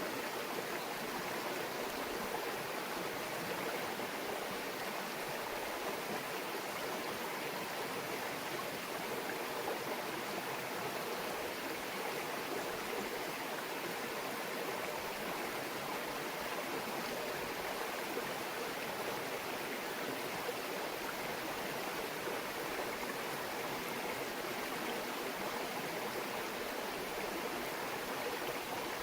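Small mountain stream babbling steadily over rocks, an even rushing murmur of water.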